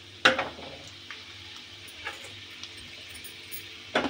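Urad dal and chana dal frying in hot oil in a metal kadai, a steady sizzle. A sharp knock comes about a quarter second in, and a few lighter clicks come near the end.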